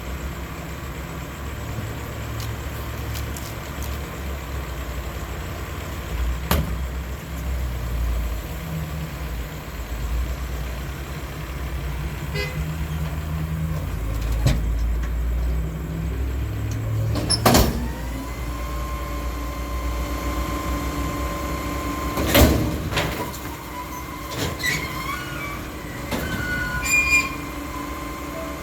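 Diesel garbage truck running, its engine drone rising and falling with the revs. Loud metallic bangs come about a quarter, three-fifths and four-fifths of the way through. A steady high whine joins in after the second bang and holds to the end.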